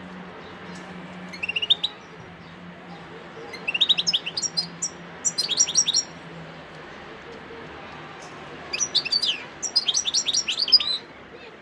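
European goldfinch singing in three bouts of quick, rising twittering notes, a short burst followed by two longer phrases.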